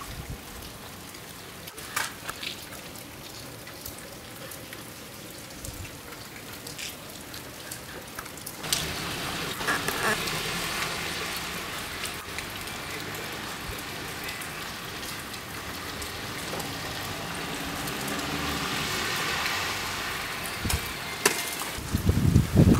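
Heavy wet snow pattering and dripping onto surfaces like light rain, with scattered ticks; the patter grows louder about nine seconds in. A few loud low thumps near the end.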